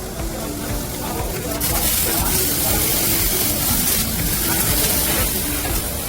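Steady hiss of CO₂ (MIG/MAG) welding, growing stronger about a second and a half in, over background music.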